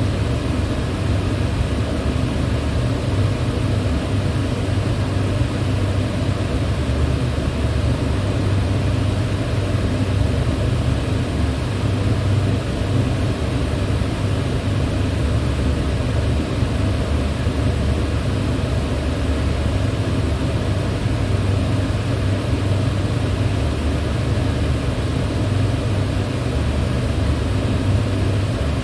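Electric fan running steadily: an even whoosh of moving air with a deep hum from the motor and blades, unchanging throughout.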